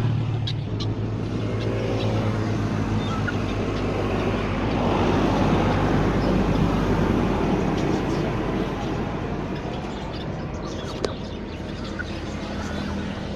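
A motor vehicle's engine running nearby, its noise swelling to its loudest about halfway through and then easing off, with a few faint bird chirps.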